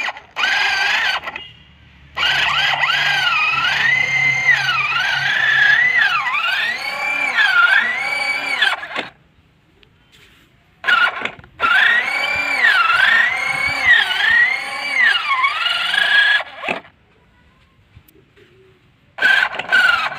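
Whine from a mini RC tractor, rising and falling in pitch over and over in runs of several seconds, stopping and starting again with short quiet pauses between.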